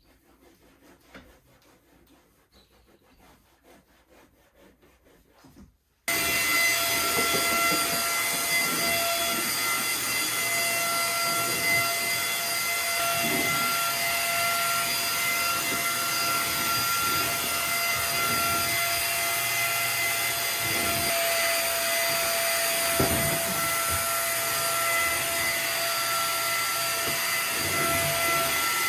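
Vacuum cleaner switched on about six seconds in, then running steadily with a constant motor whine over its rushing air noise.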